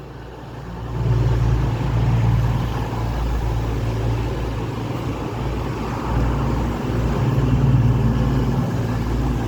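Diesel multiple-unit passenger train running through the station. A steady low engine rumble and wheel-on-rail noise rise about a second in and hold.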